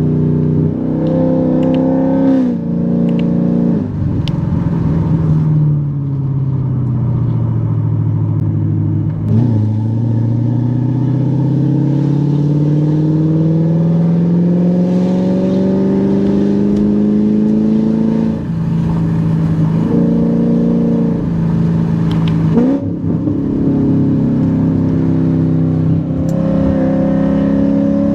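Cammed C7 Corvette Z51's 6.2-litre LT1 V8 with Kooks headers, driven hard. The revs sag for a few seconds, then make one long steady climb from about ten seconds in to eighteen. They drop sharply at gear shifts around eighteen and twenty-three seconds, then climb again near the end, with a few sharp pops along the way.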